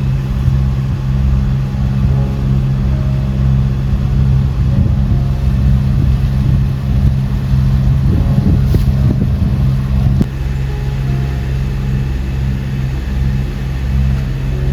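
A sailboat's inboard engine running steadily while motoring underway, a loud low hum with a rougher stretch of noise about eight to ten seconds in.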